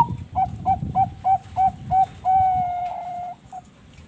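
Zebra dove of the Bangkok song strain (perkutut bangkok) cooing: a run of about six short clipped notes, roughly three a second, then one long held note and a last short note.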